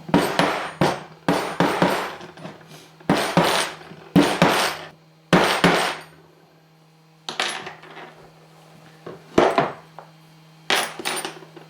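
Hammer blows on a small steel anvil, straightening old wrought-iron nails: sharp metallic strikes in irregular groups of a few, with short pauses between. The anvil sits on a plywood sheet that makes the blows very noisy.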